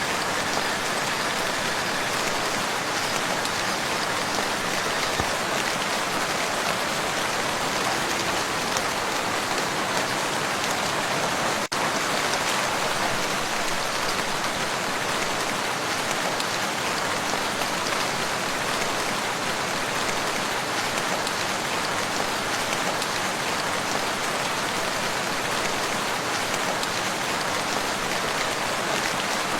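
Steady rain falling on a lake, an even, dense patter with one momentary dip about twelve seconds in.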